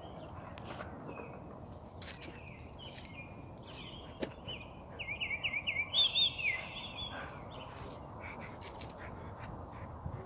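Several small birds chirping, with a louder run of quick up-and-down notes about halfway through. A few sharp clicks are heard among the calls.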